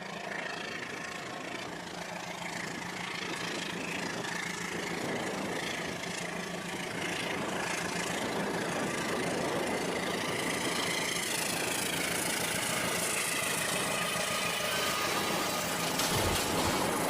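Toy train running on its track: a steady mechanical whir and rattle.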